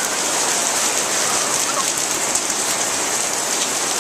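Steady rain falling and pattering on surfaces: a dense, even hiss of drops.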